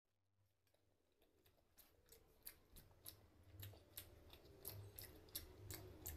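Close-miked chewing with wet mouth clicks and smacks, about three a second. It fades in from silence and grows steadily louder.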